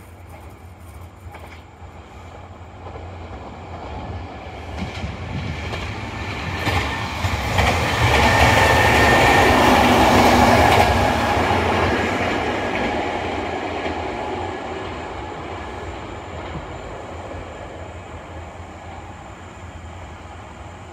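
Kintetsu 16200 series "Blue Symphony" limited express train passing through the station at speed. Its running noise and wheel clatter on the rails build as it approaches, are loudest about eight to eleven seconds in, then fade away gradually.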